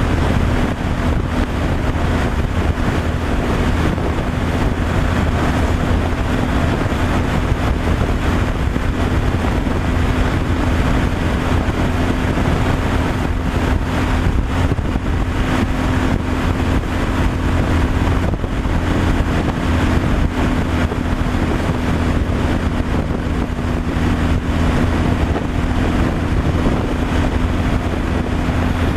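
Steady drone of a truck driving at cruising speed: a constant low engine hum with one steady tone, mixed with road and wind noise.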